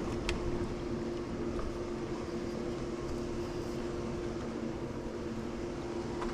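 Swimming pool pump running steadily while pulling water through the vacuum hose: a constant hum over a wash of noise.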